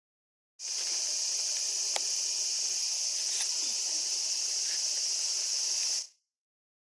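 Cicadas droning in a steady, high, hissing chorus, starting abruptly about half a second in and stopping abruptly near the end, with a single sharp click about two seconds in.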